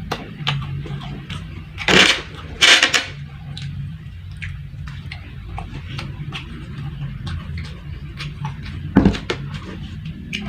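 Close-mic eating of fried rice and chili crackers: chewing with small clicks throughout, and three loud crunches, two close together about two seconds in and one near the end.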